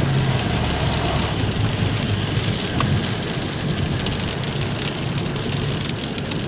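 Steady rain falling, with many small drop ticks, over a low vehicle hum that fades about half a second in.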